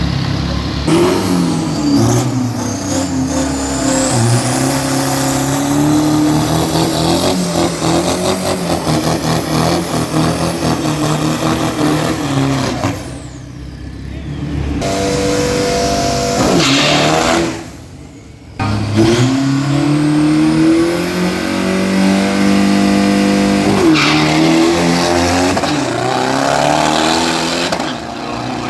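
Drag-racing engine revving hard, its pitch climbing and then dropping several times as it pulls through the gears, with two brief drops in loudness.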